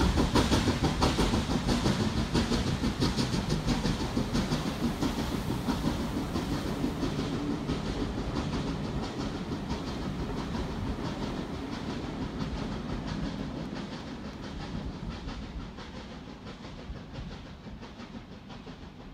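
Steam-hauled train running away into the distance: the rhythmic clatter of the carriage wheels over the rail joints fades steadily.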